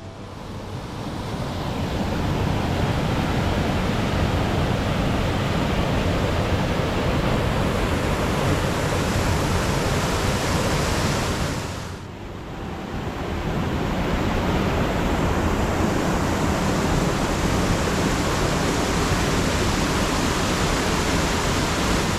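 Steady roar of rushing water, fading in over the first couple of seconds, dropping away briefly about halfway through, then building back to the same even level.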